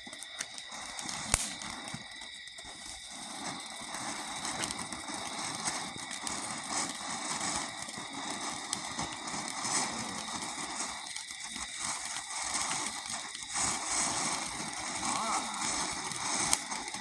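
Safe-and-sane ground fountain firework burning with a steady, uneven hiss and crackle, with a sharp pop about a second in.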